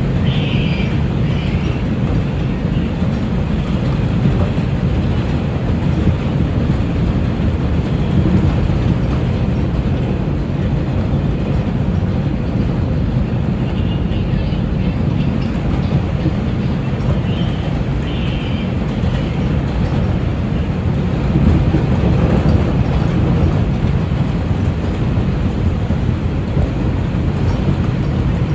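R142 subway train running at speed on the track: a steady, loud rumble of wheels on rails and running gear.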